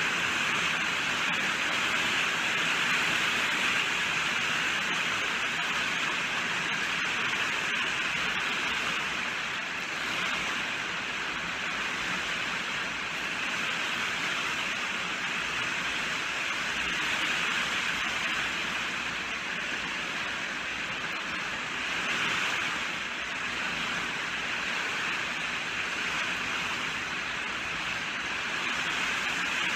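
Steady heavy rainfall, an even hiss of drops that swells gently in and out.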